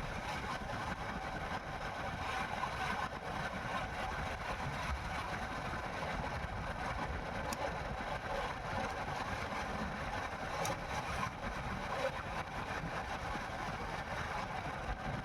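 Motorcycle running steadily while riding, its engine sound mixed with a steady rush of wind and road noise.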